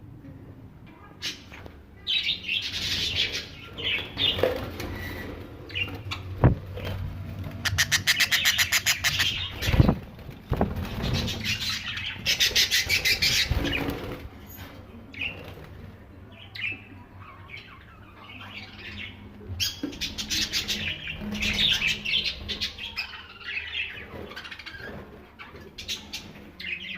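A flock of budgerigars chirping and chattering, with two stretches of rapid fluttering wingbeats partway through and a couple of dull knocks.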